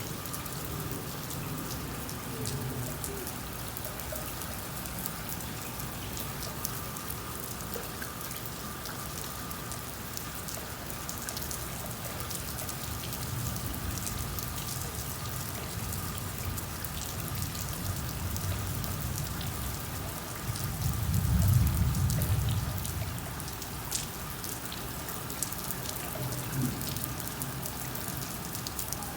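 Steady rain falling, with the patter and ticking of drops on surfaces. A low rumble swells and fades about two-thirds of the way through.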